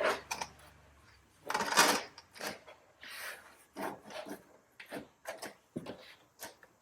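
A foam car ramp being pushed and straightened on the floor against a tire: a scrape about a second and a half in, then a run of short knocks and rubs as it is nudged into line.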